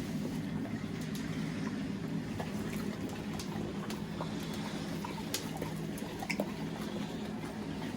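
Dogs licking and chewing frozen yogurt-and-apple treats, heard as scattered small wet clicks and smacks over a steady low hum.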